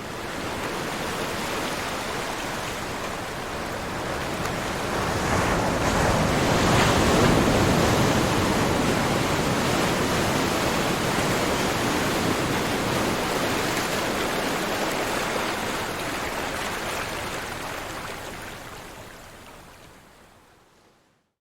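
Ocean surf: a single long wash of breaking waves that cuts in suddenly, swells to its loudest about seven seconds in, then slowly dies away to silence near the end.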